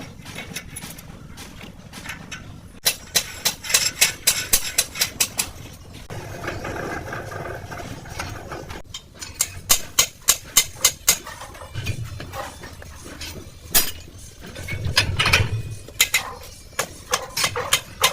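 Hammer tapping on metal in quick runs of sharp strikes, about four to five a second, coming in several bursts with pauses between, as on a truck's rear wheel hub during bearing adjustment.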